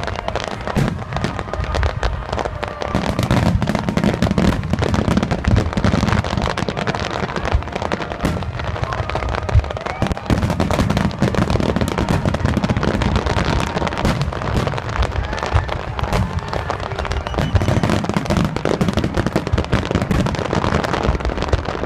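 Aerial firework shells bursting in a dense, unbroken barrage, sharp bangs and crackling following one another many times a second.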